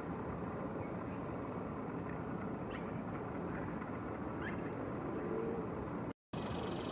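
Strong wind buffeting the microphone, a steady rumbling rush, with a few faint short high chirps now and then. The sound cuts out completely for a moment near the end.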